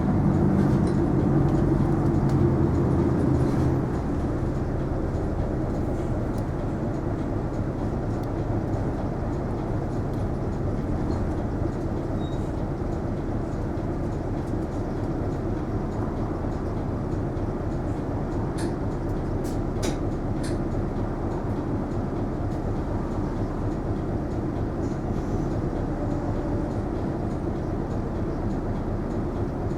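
Isuzu Erga non-step city bus heard from inside the cabin: engine running with road noise, louder with a pronounced engine note for the first few seconds, then settling to a steadier, quieter drone. A few light clicks about two-thirds of the way in.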